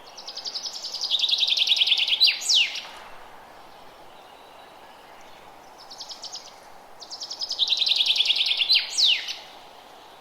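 A songbird singing the same song twice, about five seconds apart: a fast trill of repeated notes that steps down to a lower trill and ends in a quick sweeping flourish, over a steady background hiss.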